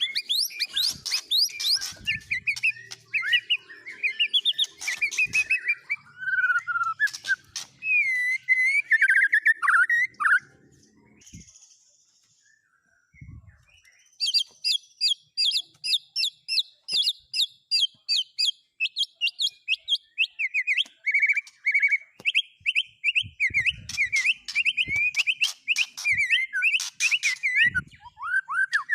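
Small songbird singing: varied phrases of gliding whistles and chirps, then a pause of a few seconds, then a long run of quick, evenly repeated chirps, several a second. A few faint soft thumps come in between.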